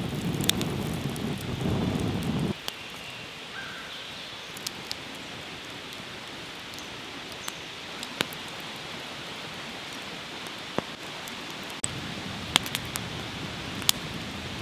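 Charcoal fire crackling: scattered sharp pops and clicks over a steady hiss. A louder low rumble in the first two and a half seconds cuts off suddenly.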